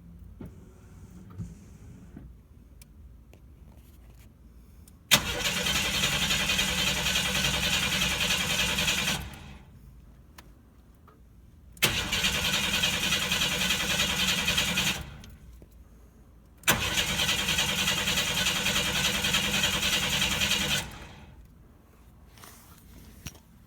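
Starter cranking the 1992 Chevy S10 Blazer's throttle-body-injected engine in three tries, each about three to four seconds long, the first starting with a sharp click. The engine does not catch: the fuel pump is dead and gives no fuel pressure.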